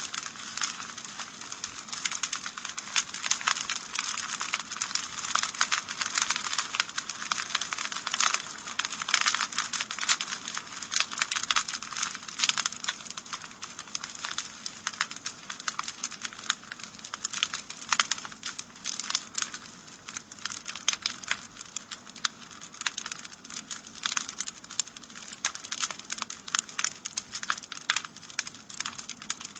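Wood fire in a fireplace crackling, a dense run of small sharp pops and snaps over a soft hiss.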